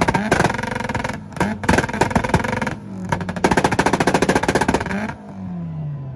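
Mitsubishi engine revved against a two-step launch limiter: a rapid machine-gun stream of exhaust pops and bangs with a short break in the middle. About five seconds in it cuts off and the revs fall back toward idle.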